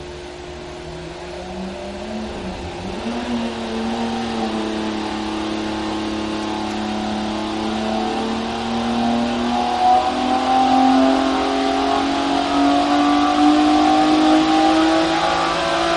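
Freshly rebuilt Lamborghini Miura S 3.9-litre Weber-carburetted V12 under load on an engine dynamometer during a power run. It climbs steadily in pitch and loudness as the revs rise from under 3,000 to over 6,000 rpm.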